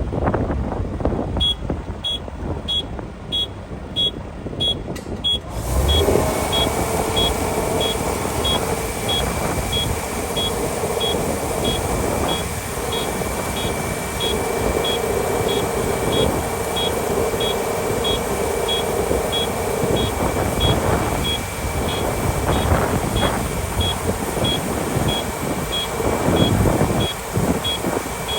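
Kubota ER572 combine harvester running, with a steady machine drone and a short high beep repeating about twice a second. About five seconds in the sound fills out and a steady whine joins the drone.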